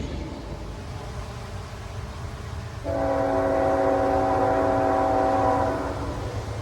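Diesel locomotive air horn sounding one steady chord for about three seconds, starting about three seconds in, over the low rumble of a passing train.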